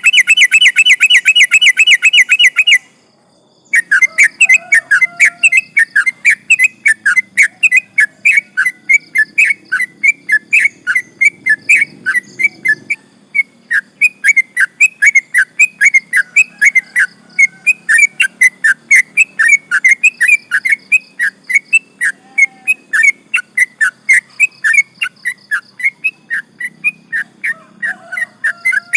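Yellow-vented bulbul singing a long, unbroken run of quick repeated whistled notes, about four a second, the rapid non-stop song that keepers call "ropel" and use as a lure to set other bulbuls singing. It opens with a fast trill that stops about three seconds in, then the run follows after a short pause.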